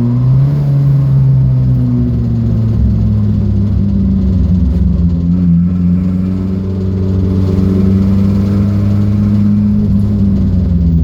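Datsun B210 engine running hard on track, its note holding fairly steady, easing off briefly about halfway, then building again.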